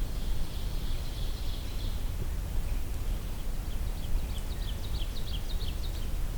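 Songbirds calling in woodland: a thin, high trill in the first two seconds, then a quick series of short, downslurred high notes about two-thirds of the way in, over a steady low rumble of background noise.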